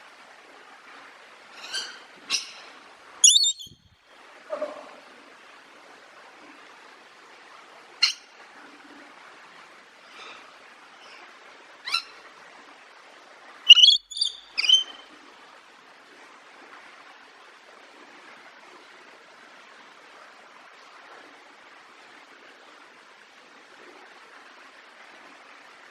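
Parrot calling with short, sharp squawks every few seconds. The loudest comes a few seconds in, and a quick run of three follows midway, over a steady faint hiss. In the second half only the hiss remains.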